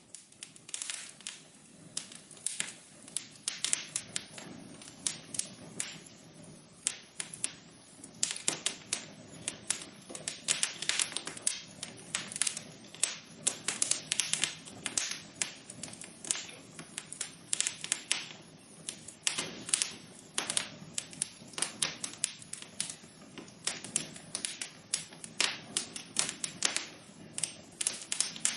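Wood fire crackling, with many irregular sharp pops and snaps over a soft hiss.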